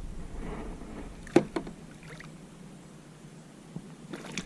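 A few sharp knocks and bumps in a kayak: two close together about a second and a half in, the first the loudest, and a smaller cluster near the end.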